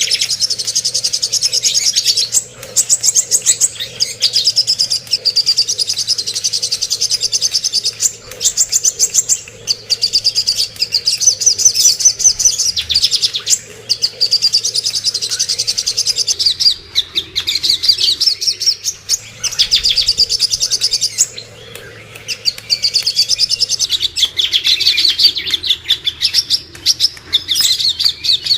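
Songbird singing rapid, high chirping trills in long phrases several seconds long, broken by brief pauses, a masteran tutoring recording meant to teach silent caged birds to sing.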